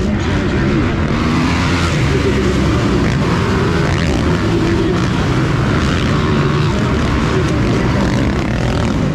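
Motocross bikes racing on the track, their engines revving up and down and blending into a steady drone.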